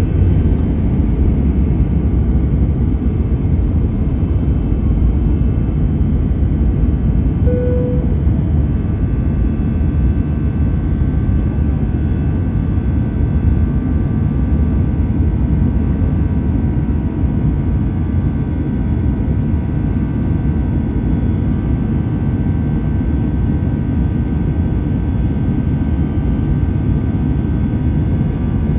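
Airbus A320 jet engines running steadily: a continuous low rumble with faint steady tones above it, level throughout, with one brief short tone about eight seconds in.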